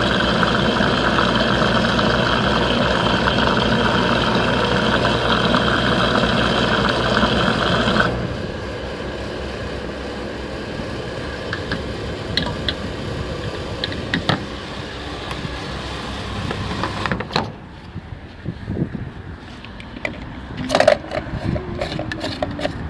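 Fuel dispenser running steadily while fuel flows, with a steady hum and whine; it stops abruptly about eight seconds in. Then come scattered clicks and knocks of metal and plastic being handled, louder near the end.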